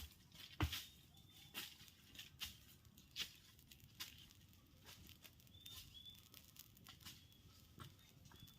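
Small birds fluttering and scrabbling, giving irregular faint rustles and sharp clicks, with a few brief, faint high chirps.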